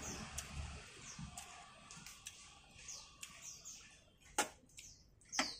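A small bird chirping, short high chirps about every half second, with two sharp clicks near the end.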